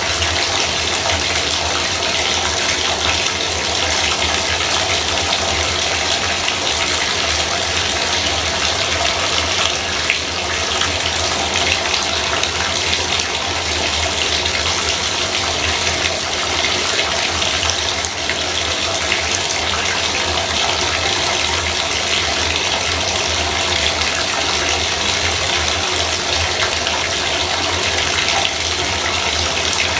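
Bathtub faucet running steadily, a continuous even rush of water.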